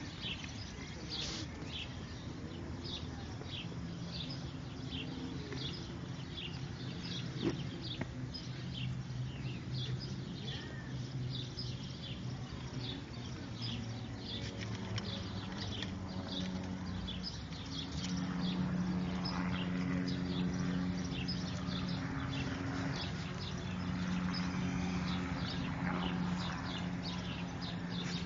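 Small birds chirping in quick, irregular short notes throughout, over a low steady hum that grows louder about two-thirds of the way in.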